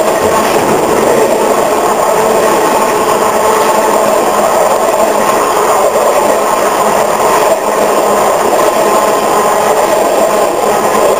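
Coal train's steel wheels rolling along the rail right beside the microphone: a loud, steady rumble of wheel on rail, with faint ringing tones from the steel.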